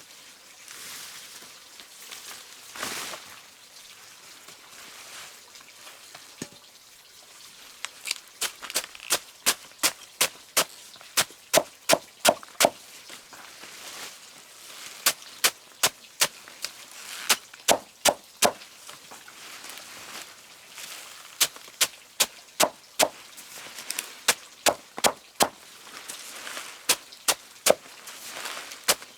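A hand tool striking wood: runs of sharp blows, about two to three a second, starting about a quarter of the way in and broken by short pauses.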